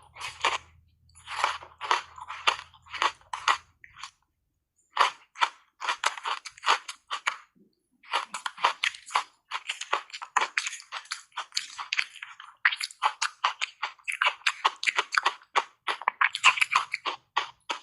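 Ice being bitten and chewed up close to the microphone: dense runs of sharp, crackling crunches, with short breaks about four and about eight seconds in.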